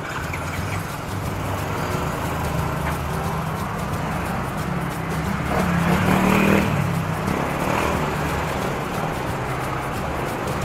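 Road traffic: a steady low engine hum, with a vehicle passing close by that is loudest about six seconds in.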